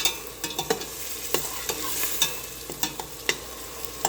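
Chopped onions sizzling as they sauté in oil, with irregular clicks and scrapes of a spoon stirring them against the pan.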